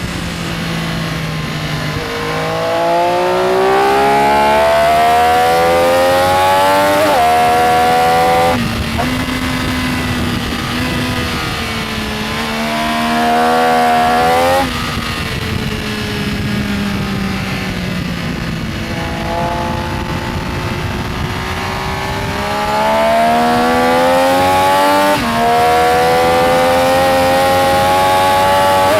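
Benelli Tornado Tre 900's inline-three engine under hard acceleration. Its note climbs in pitch through the revs and drops sharply at upshifts, about 7 s and 25 s in. In between, the throttle shuts off at around 8.5 and 14.5 s and the revs fall away before it pulls again.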